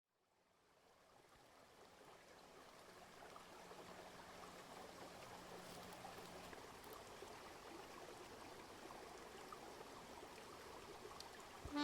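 Faint, steady rushing like a trickling stream, fading in from silence over the first few seconds.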